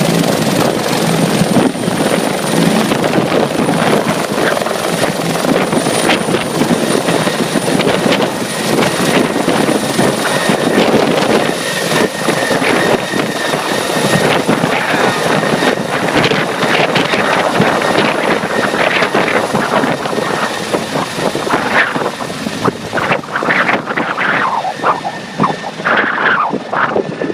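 Rescue helicopter taking off and departing: a loud, continuous rotor chop with a thin, steady high turbine whine above it. Near the end it grows less steady and fades as the helicopter moves away.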